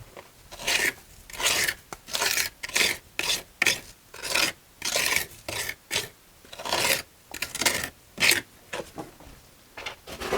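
Masonry hand tool scraping against mortar and brick in quick, uneven gritty strokes, about two a second.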